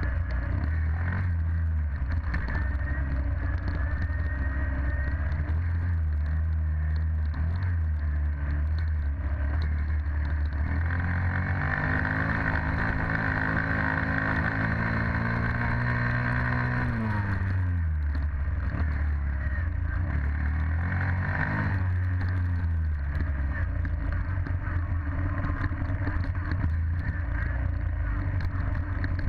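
Dirt bike engine running steadily, its pitch climbing gradually from about ten seconds in, holding high for several seconds, then dropping back sharply a little past halfway.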